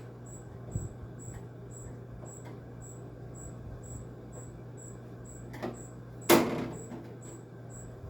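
Screwdriver and metal-cased window air conditioner being handled during disassembly: a few light knocks, then one loud clank with a short ring about six seconds in. Under it runs a steady low hum and a faint, regular high ticking.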